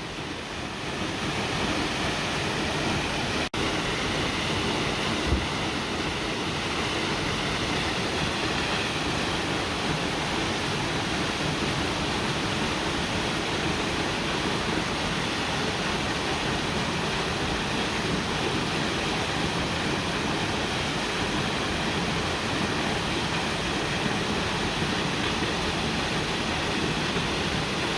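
Steady rush of a waterfall, with one short low thump about five seconds in.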